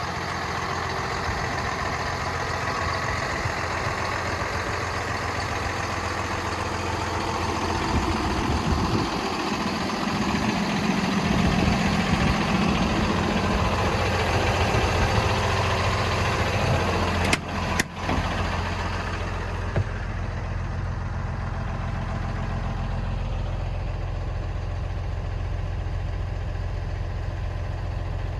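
The Cummins ISB inline-six diesel of a 2011 Freightliner M2 dump truck, idling. The running is louder and busier through the middle. After a short break about 17 seconds in, it runs on quieter and steadier.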